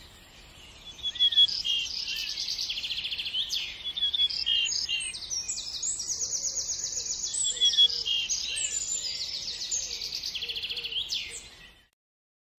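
Songbirds singing, several overlapping voices of rapid trills and chirps, fading out near the end.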